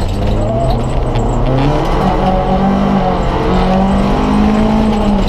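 Rally car engine heard from inside the cabin, driven hard along the stage. The revs climb, dip briefly about three seconds in, then climb again.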